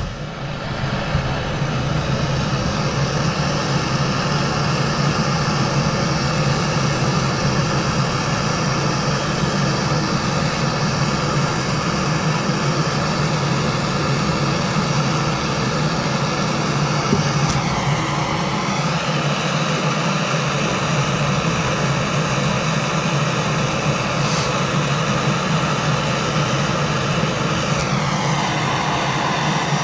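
Handheld gas torch burning with a steady hiss while heating brass valve fittings to sweat the solder joints. Its tone dips and comes back up twice, about two-thirds through and again near the end.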